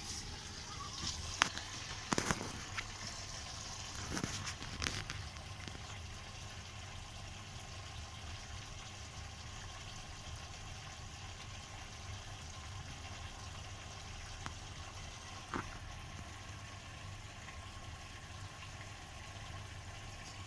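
Bosch washing machine taking in water early in its easy-care 40 °C cycle: a steady rush of water, with a few clicks and knocks in the first five seconds.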